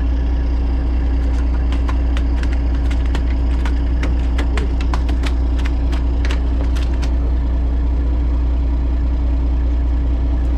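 Fishing boat's engine running steadily, a constant low drone, with a scatter of short sharp clicks and taps for most of the first seven seconds.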